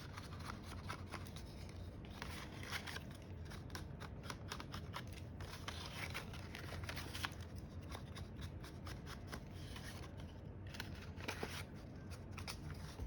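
Cardstock edges being distressed by hand: a quick run of small scraping and rasping strokes along the paper edge, continuing without a break.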